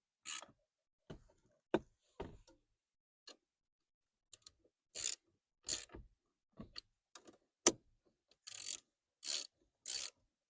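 Hand ratchet and socket clicking in short bursts of swings while tightening steering-column bolts, with a few sharp knocks of tools on metal in between.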